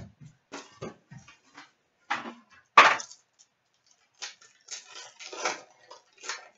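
Trading-card box and foil pack being torn open and handled: irregular crinkling and tearing rustles, the loudest a sharp tear about three seconds in.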